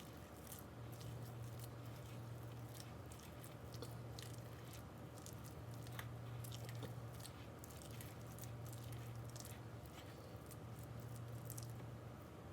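A spoon stirring and folding crab meat into a thick, cheesy dip mixture in a bowl: soft squishing with many scattered light clicks, over a steady low hum.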